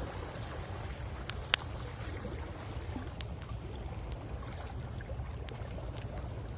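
Driftwood bonfire crackling with scattered sharp pops, one much louder pop about a second and a half in, over a steady low rumble of waves on the shore.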